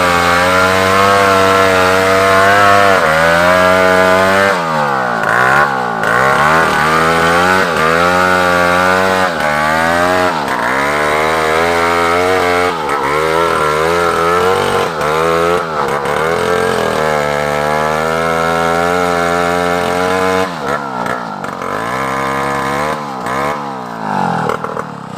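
A large chainsaw cutting African timber. It runs at steady high revs for the first few seconds, then keeps dropping and climbing back in engine speed as the throttle is eased and reopened. It holds steady again for a stretch before more dips near the end.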